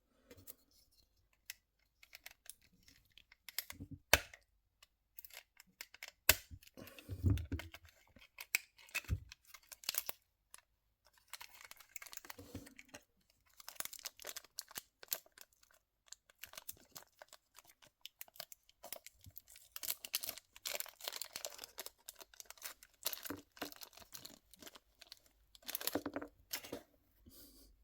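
Plastic packaging being opened and handled by hand: irregular crinkling and tearing with scattered sharp clicks.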